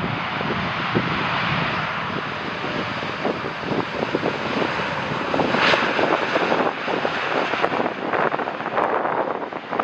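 Jet airliner passing on its landing approach, a dense engine roar that builds to a peak a little past the middle and then eases slightly.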